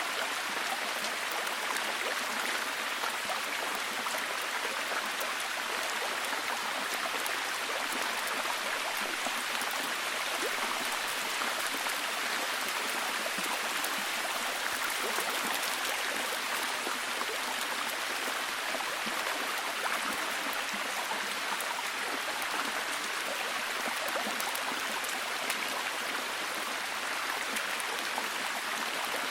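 Steady heavy rain: an even, unbroken hiss dotted with the fine patter of countless individual drops.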